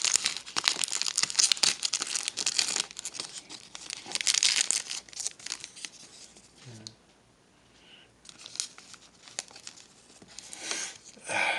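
A hockey card pack's wrapper being torn open and crinkled, loudest in the first few seconds. It is followed by quieter, scattered crinkling as the pack is handled.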